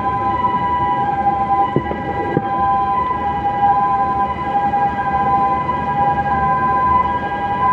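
Port container-lifting machine running with a steady, unbroken high whine made of two close tones, over a low rumble.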